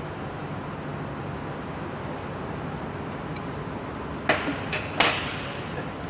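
A few sharp metallic clinks of tools or engine parts knocking together, the loudest about four seconds in and another just under a second later, over a steady low background hum.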